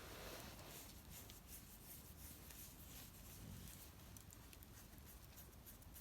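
Near silence with faint scattered crackles from a wood campfire.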